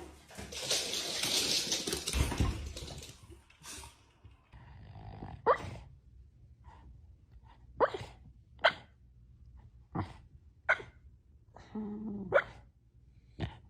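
A dog giving about seven short, sharp barks, spaced a second or two apart, after a couple of seconds of hiss-like noise at the start.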